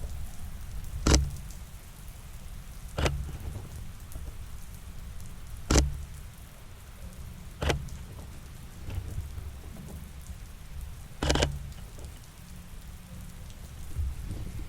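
Steady rain falling, a continuous hiss over a low rumble, with five sharp clicks at irregular intervals.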